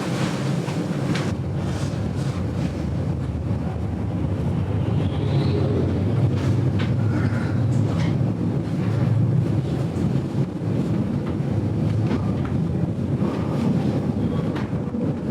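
GoldenPass Belle Époque train carriage running along the track: a steady low rumble with scattered clicks and knocks from wheels and carriage, and a few faint brief squeals.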